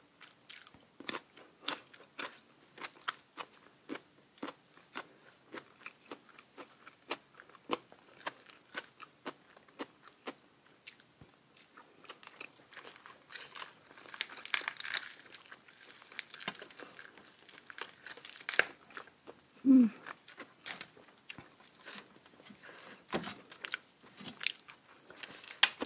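Close-up chewing and crunching of food: regular crunchy bites about twice a second, a denser stretch of crackly crunching midway, then slower chewing again. A brief low hum comes about three-quarters of the way through.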